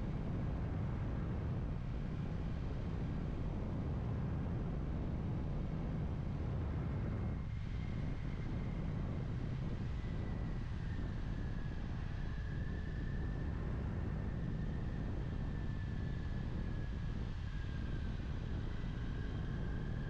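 Kawasaki Ninja 400 parallel-twin engine running at a steady cruise, under a heavy, even rush of wind noise on the helmet-mounted mic. A faint, thin high whine comes in about a third of the way through and wavers slightly in pitch.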